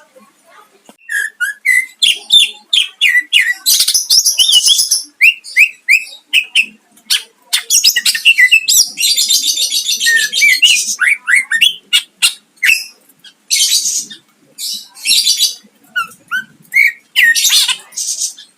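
Cucak ijo (green leafbird) singing loudly in full song: quick whistled chirps and slurred notes broken by several long, harsh rattling bursts, the 'tembakan' notes of a bird in top form.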